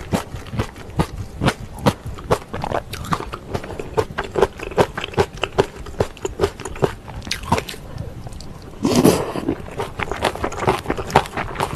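Close-miked chewing of pork kimchi stew: a quick, irregular run of wet mouth smacks and soft crunches, several a second, with one longer, louder slurp from the spoon about nine seconds in.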